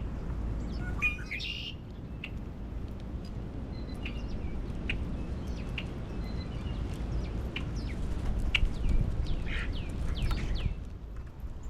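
Wild birds chirping: many short, quick calls that slide downward in pitch, one stronger burst about a second in, and a denser run of calls in the second half.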